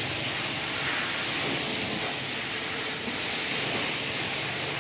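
High-pressure washer spraying water onto a vehicle: a steady, unbroken hiss.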